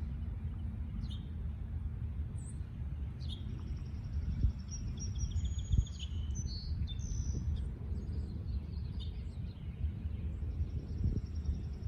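Small birds chirping, with short falling chirps every few seconds and a couple of buzzy trills, over a steady low rumble.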